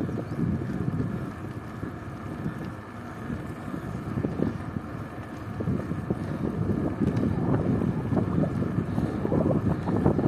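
Wind buffeting the microphone during a bike ride: an uneven, rumbling rush that dips a few seconds in and grows stronger again in the second half.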